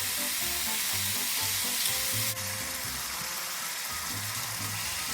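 Chicken pieces searing in hot oil in a pan, with a steady sizzle.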